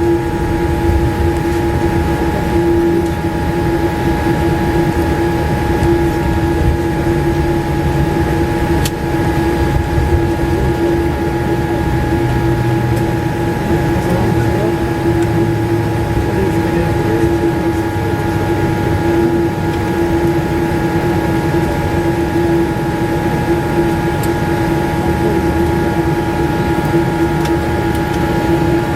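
Steady cabin noise inside a Boeing 787-8 airliner: a constant low rumble with an unchanging hum and several steady whining tones.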